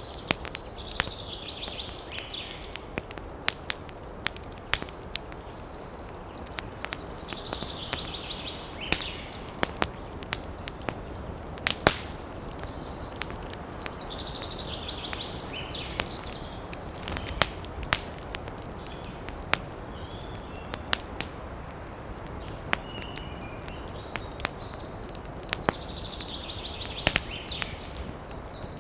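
Campfire crackling, with frequent sharp pops and snaps over a steady hiss. A bird calls in short chirping phrases about every six to seven seconds.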